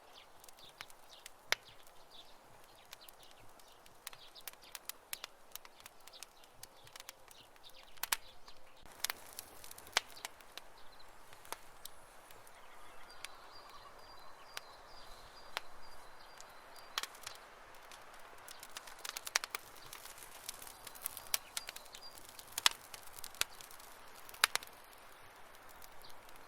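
Campfire crackling: burning wood giving off irregular sharp pops and snaps over a soft steady hiss.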